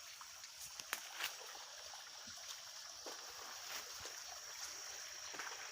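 Faint river water flowing, with a few light clicks and knocks.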